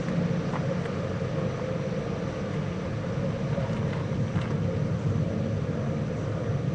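Steady low rumble and hiss with a faint constant hum, and a few faint clicks.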